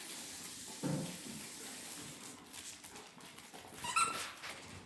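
A dog making small noises: a low grunt about a second in and a short, high, rising whine near the end.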